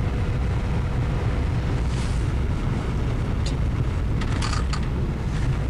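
Steady low rumble of a car driving, heard from inside the cabin: engine and road noise, with a few faint clicks in the second half.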